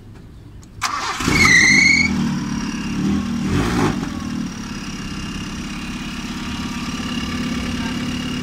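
Carbureted Nissan car engine cranked by its starter about a second in and catching at once, with a brief rising squeal as it revs, a second rev, then settling into a steady idle. It starts now that the battery supply line to the ignition switch, burnt by a battery connected backwards, has been repaired.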